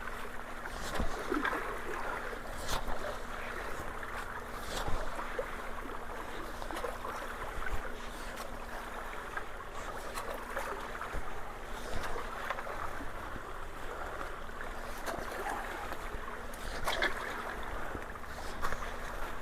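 Water rushing steadily through a clogged roadside ditch and culvert as leaf and stick debris is cleared, with a few sharp knocks.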